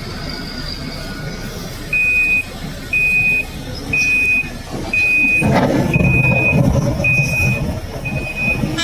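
A heavy mining vehicle's reversing alarm beeping about once a second, seven beeps, each about half a second long, over its engine running. The engine grows louder about halfway through.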